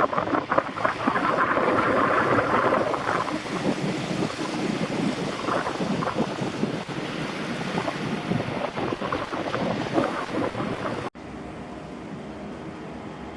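Wind buffeting the microphone over a rushing outdoor noise, with irregular gusts and knocks. About eleven seconds in it drops suddenly to a quieter, steadier background.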